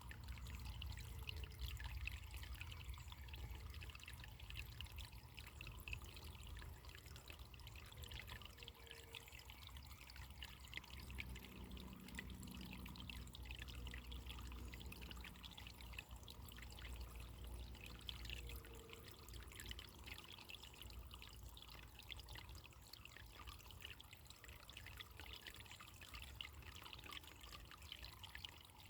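Running water trickling and splashing steadily, with fine dripping detail over a low, continuous rumble.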